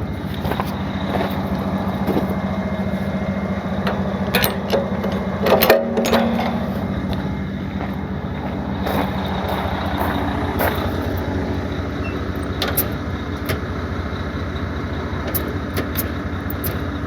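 Heavy wrecker's diesel engine running at idle with the PTO engaged, a steady hum. Scattered sharp metallic clanks and clicks come over it, the loudest about four and a half to six seconds in, as the winch lines and hooks are brought in and latched.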